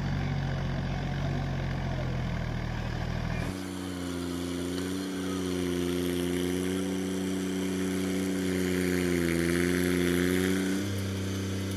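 John Deere 5050D tractor's three-cylinder diesel engine running steadily. About three and a half seconds in the engine note changes abruptly to a different steady hum, then changes back near the end.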